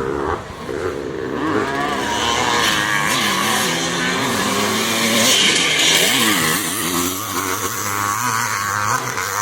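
Vintage motocross bikes racing, with several engines revving up and down as they accelerate and shift.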